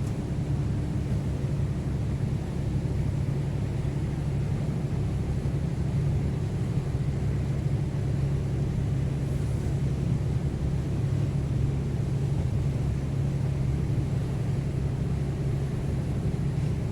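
Passenger ferry engine running with a steady low drone, heard on board during the crossing.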